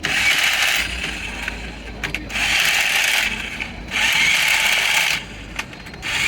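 A workshop tool working metal in repeated rasping bursts, each about a second long, with short pauses between.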